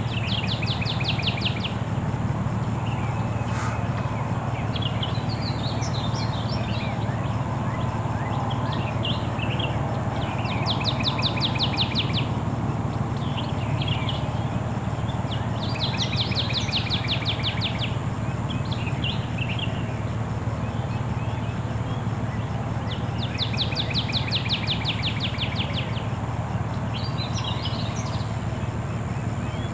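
Songbirds singing outdoors: one bird repeats a rapid ticking trill every five or six seconds, with shorter chirps from others in between, over a steady low rumble.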